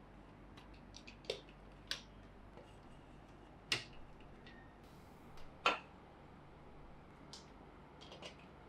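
Plastic toy train track and parts being handled and fitted together: scattered light clicks and taps at irregular intervals, two sharper ones a little under four and six seconds in.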